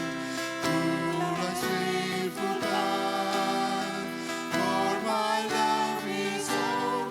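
Congregational worship song: voices singing together over guitar accompaniment.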